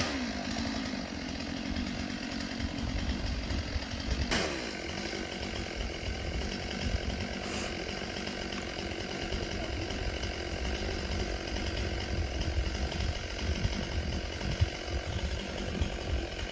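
Chainsaw idling steadily, with gusty wind rumbling on the microphone. A short sharp click about four seconds in.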